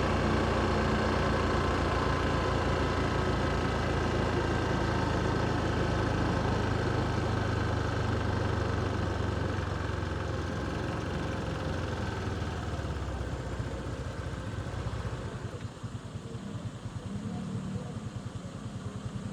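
Motorcycle engine and surrounding traffic while riding, easing off and settling about fifteen seconds in to a quieter, evenly pulsing idle.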